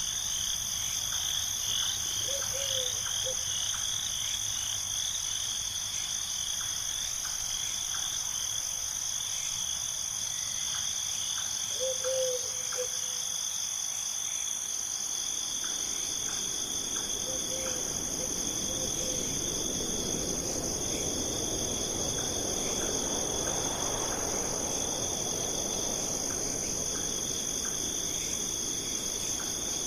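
Crickets trilling in a steady, high chorus, with a few short low calls about two, twelve and seventeen seconds in. A soft rush of noise swells in the second half and fades near the end.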